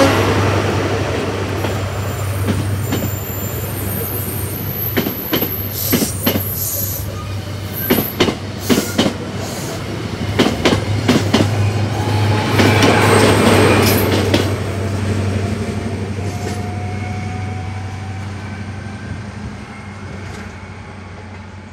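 Class 43 HST diesel train passing and drawing away: a steady low drone from the power cars, with a quick run of clicks from the wheels crossing rail joints and points as the coaches go by, and a few thin high wheel squeals. It fades steadily over the last several seconds as the train recedes.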